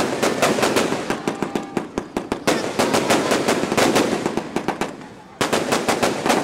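Fireworks going off in rapid succession: a dense run of sharp cracks and pops, several a second, easing briefly and then coming back with a sudden louder burst about five seconds in.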